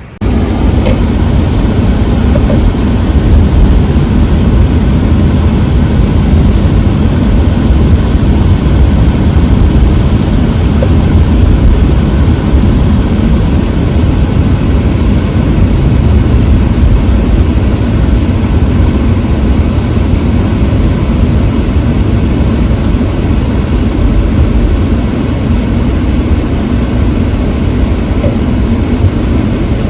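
A loud, steady roar of a car being driven, road and engine noise with no let-up.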